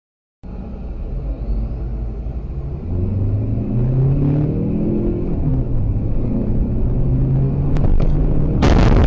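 Car engine accelerating, its pitch climbing, dropping back about five seconds in as if at a gear change, then running steadily. Near the end a sudden loud burst of noise cuts in.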